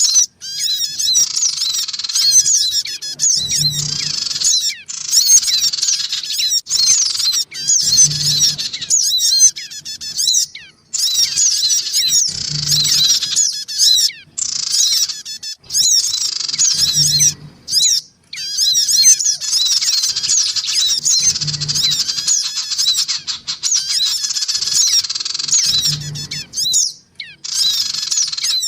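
Bird-lure recording of sogon birds calling noisily, with many fast, high, overlapping chirps and squeaky calls. A low thump repeats about every four and a half seconds through the loop.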